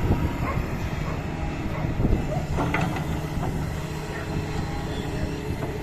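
Doosan DX225 excavator's diesel engine running with a steady hum, with a few knocks and clanks, the loudest about two seconds in.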